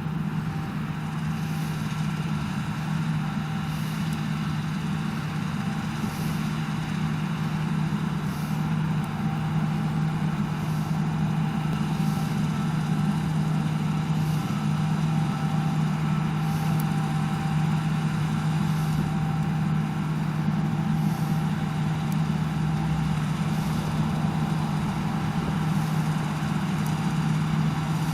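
Heavy farm machinery engine running steadily under working load: a deep constant drone with a steady higher whine over it, and faint light clicks about every two seconds.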